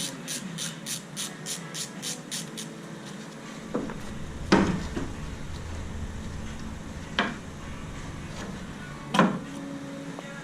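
Hand-tool work on a car during engine removal: a quick run of even clicks, about four a second, stops near the start, then four separate knocks, the second one the loudest, over a low hum.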